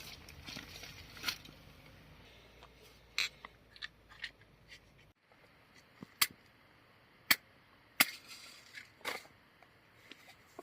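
A few sharp clicks and snaps at irregular intervals, the loudest in the second half. Partway through, the faint background hiss drops away suddenly at an edit.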